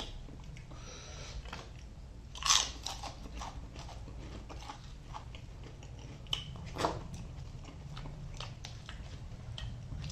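A person chewing and biting food, with a run of sharp crunches. The loudest crunches come about two and a half seconds in and again near seven seconds.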